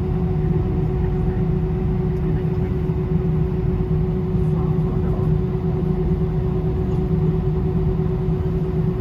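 Steady cabin noise of an Airbus A320 heard from inside the passenger cabin: the deep, even rumble of the jet engines and airflow, with a constant hum over it.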